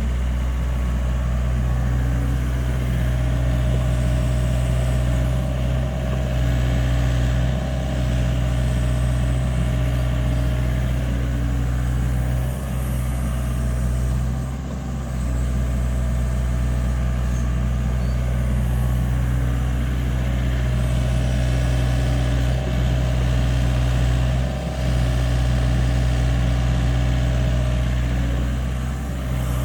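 LiuGong mini excavator's diesel engine running steadily under work, the level dipping briefly a few times.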